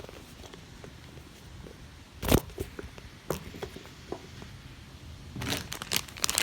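Handling noise: scattered light clicks and one sharp knock about two seconds in, then crinkling of packaging starting near the end.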